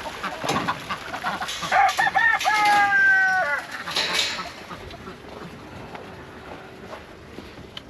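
A rooster crowing once, a call of nearly two seconds about two seconds in, ending with a drop in pitch, amid chickens clucking.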